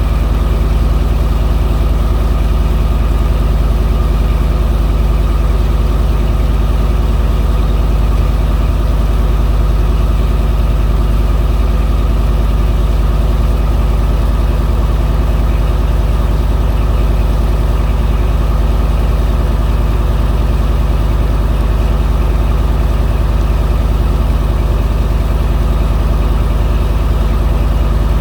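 A boat engine running steadily at a constant speed, close by: a loud, even, low drone whose pitch does not change.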